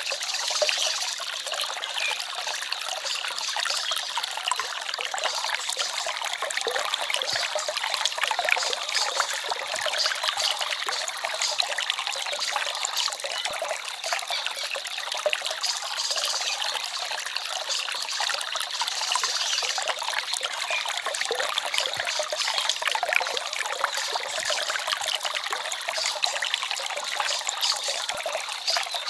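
Small forest stream trickling and babbling steadily, a light splashing sound with almost no low rumble.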